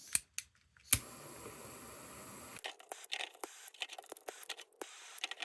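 Light clicks and taps of objects being handled, with one sharp click about a second in and a faint hiss behind.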